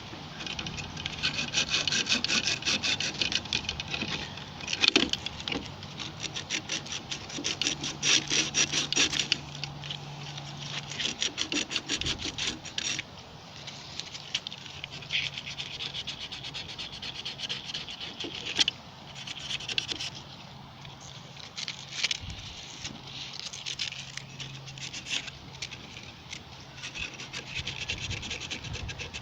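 Rapid hand scrubbing of a gas water heater's thermocouple with an abrasive, in quick back-and-forth strokes that come and go, cleaning off the buildup so the pilot will stay lit.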